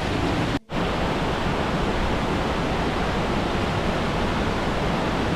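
Steady rushing of the mountain stream (Stanley Ghyll's beck) tumbling through the rocky gorge. The sound cuts out completely for an instant about half a second in, then carries on unchanged.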